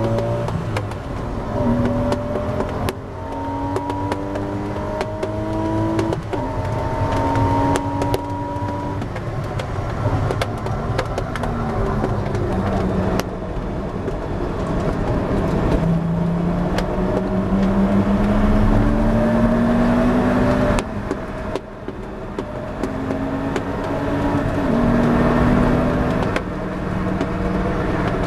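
2004 Porsche 986 Boxster S's 3.2-litre flat-six engine heard from inside the race car's cabin, revving up through the gears with an upshift about every three seconds. The revs fall away as the car slows for a corner about ten seconds in, then the engine pulls up hard again, with a sudden lift about 21 seconds in before accelerating once more.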